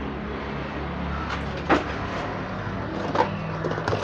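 A few sharp clicks and knocks of a small electronic device and tools being handled during disassembly, over a steady low hum.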